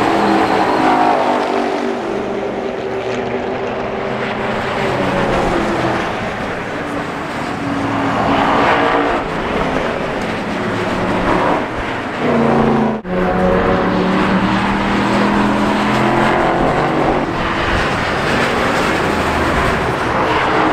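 Several Ford Mustangs' engines running as the cars drive past one after another, their pitch held steady and then falling away as each goes by. The sound cuts out for an instant about two-thirds of the way through.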